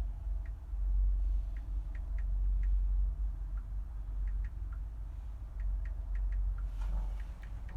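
Steady low rumble of high wind on the microphone, with scattered faint light ticks, during a gondola ride down in strong wind.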